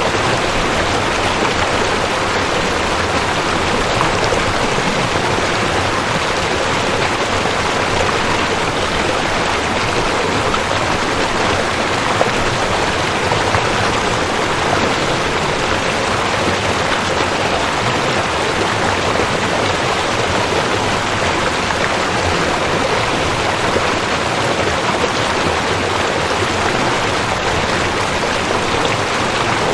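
Rushing creek: a steady, even rush of water over rocks.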